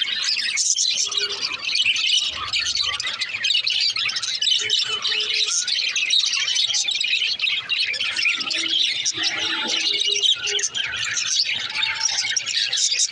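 Budgerigars (budgie parakeets) chattering, with many overlapping high chirps and warbles that run on without a break.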